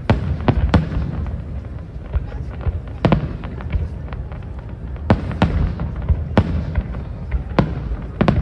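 Aerial fireworks shells bursting in sharp bangs at irregular intervals: three in quick succession at the start, then single bangs and pairs spread through, over a steady low rumble.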